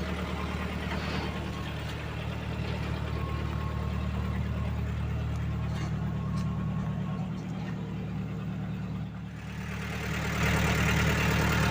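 Vehicle engine idling steadily, dipping briefly about nine seconds in and then growing louder near the end.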